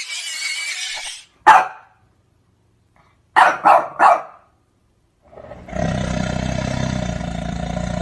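Animal calls: a high squealing call that stops about a second in, then a dog barking once and then three times in quick succession. About five and a half seconds in, a long deep roar begins and holds steady.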